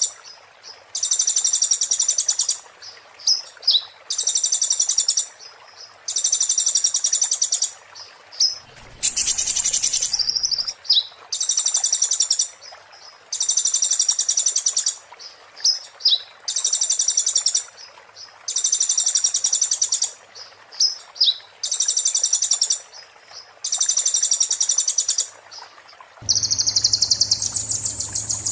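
A konin songbird singing in the 'muntah beling' style: high, rapid, glassy trills in bursts of about a second and a half, repeated over and over with short chirps between them. A brief rushing noise about nine seconds in, and a different sound with a low hum near the end.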